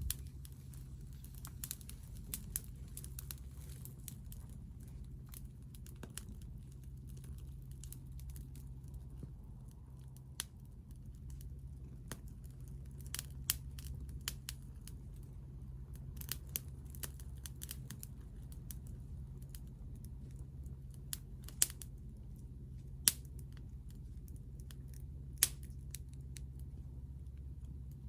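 Wood fire crackling over a steady low rumble, with scattered sharp pops, a few louder ones in the second half.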